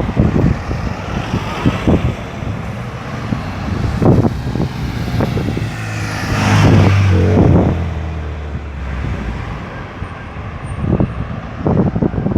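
Road traffic moving through a busy roundabout, with a steady wash of car engines and tyres. About halfway through, one vehicle passes close by. Its engine grows loud, becomes the loudest sound, then fades away.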